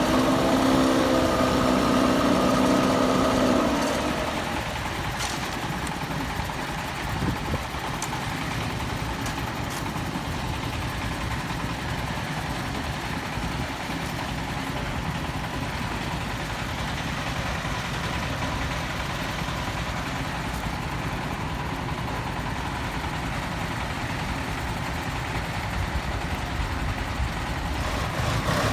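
A truck engine running steadily. For the first four seconds it is louder, with a steady droning pitch, then it settles to a lower, even rumble.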